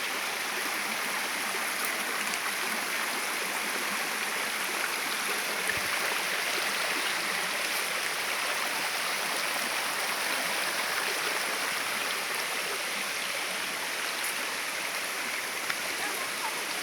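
Steady rush of falling and running water from a waterfall and its stream.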